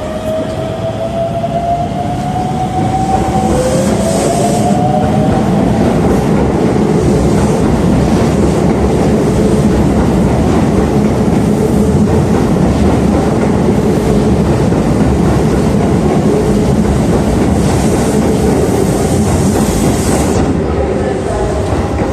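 9100-series electric commuter train running on the rails: an electric motor whine rises in pitch over the first few seconds as it gathers speed, then settles into a steady rolling rumble of wheels on track. Brief high hissing comes in at about four seconds and again for a few seconds near the end.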